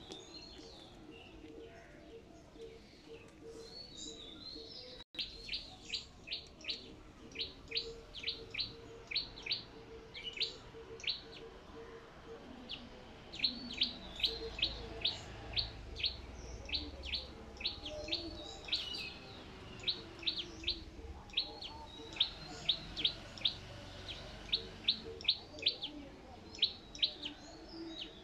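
A bird repeating a short, high chirp over and over, about two a second, with a brief pause near the middle.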